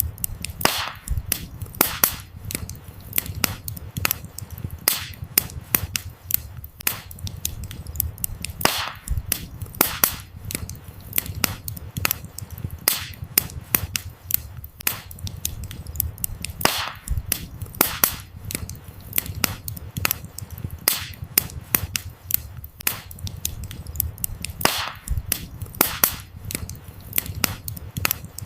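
Wood fire burning: a steady low rumble of flames with dense, irregular crackles and sharp pops from the burning firewood, several every second.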